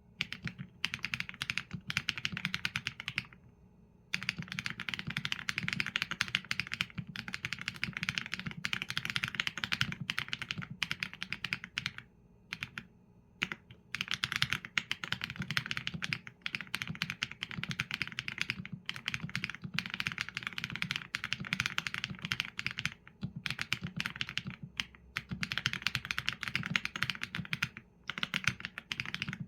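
Fast, continuous typing on a Qsenn A75 mechanical keyboard with Leobog Graywood V4 linear switches and PBT keycaps: dense runs of keystrokes with a few brief pauses, the longest about a second, near the start, about two-fifths of the way in, and just before the end.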